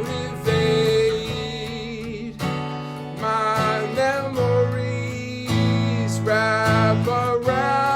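Martin GPCPA4 acoustic guitar played, a run of strummed chords and picked notes changing about once a second.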